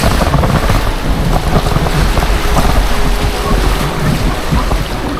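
Rushing whitewater around a canoe running rapids, with wind buffeting the microphone as a heavy low rumble.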